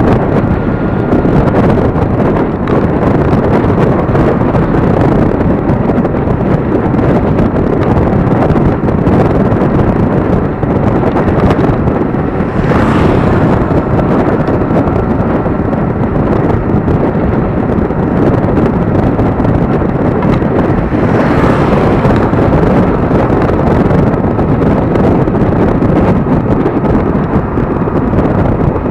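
Wind rushing over the microphone of a moving electric scooter, a loud steady rush with a faint steady high whine under it. It swells briefly twice, about halfway through and again about two-thirds of the way in.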